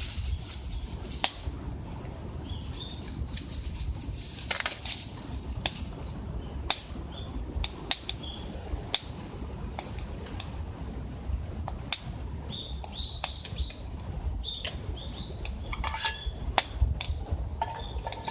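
Wood fire crackling in a camp stove, with irregular sharp pops scattered throughout. Short high bird chirps come and go, more of them in the second half.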